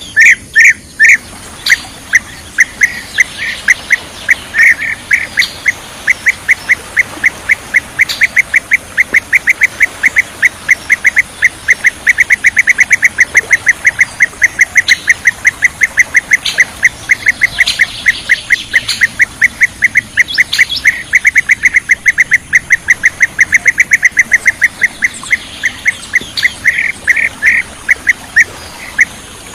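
Bee-eater calls: a long, unbroken series of short, clear chirps, several a second, at a steady pitch.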